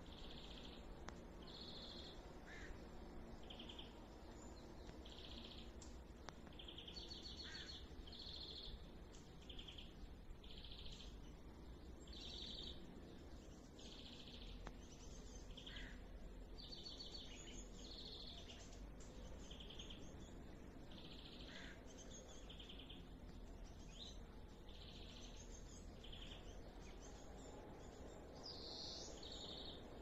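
Birds chirping faintly and repeatedly, short high calls about once a second, some trilled, with a few short falling notes, over a low rumble.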